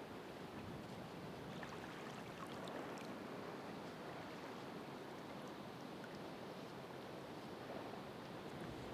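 Ocean waves washing on the shore as a steady surf wash, with a few faint high ticks scattered through it.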